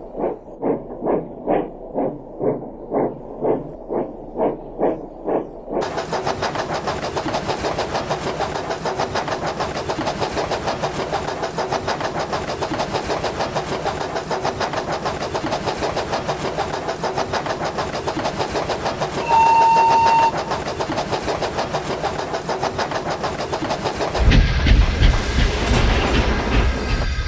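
Steam locomotive sound effects: slow, evenly spaced exhaust beats about two and a half a second, then a faster, denser running sound. A whistle blasts for about a second around twenty seconds in, and a heavy rumble of a passing train comes in near the end.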